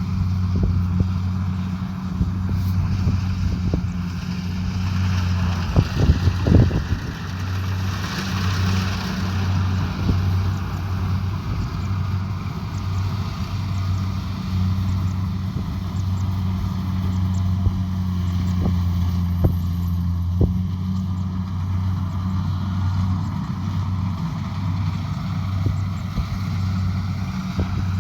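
Kubota DC70 Pro combine harvester's diesel engine running steadily under harvesting load, with the machinery's clatter and a few sharp knocks about six seconds in.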